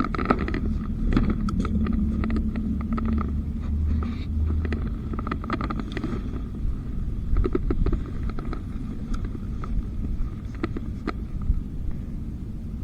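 Wind rumbling on an action camera's microphone, with scattered clicks and scrapes from handling gear and clothing. The rumble is strongest over the first few seconds.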